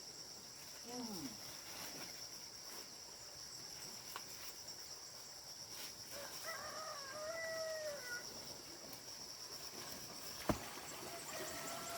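A rooster crowing, one long call about six seconds in and another starting near the end, over a steady high-pitched insect drone that stops about ten seconds in. A single sharp knock sounds about ten and a half seconds in.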